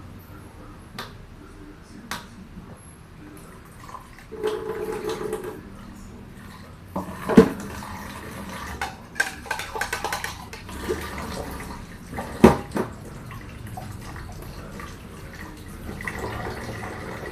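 Washing up at a sink: tap water running in spells while utensils and dishes knock and clink, with a few sharp clanks, the loudest about seven and twelve seconds in.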